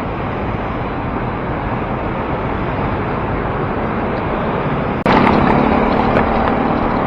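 Steady wind and road noise from riding a bicycle in city traffic. About five seconds in, the sound cuts off abruptly and returns louder, with a low steady vehicle hum and a few clicks.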